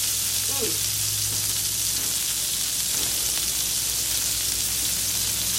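Chicken livers frying in oil in a nonstick pan, a steady sizzle.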